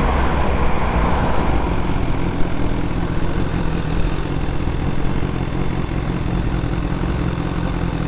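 BMW S1000R's inline-four engine running steadily at low revs through its aftermarket exhaust, getting a little quieter toward the end.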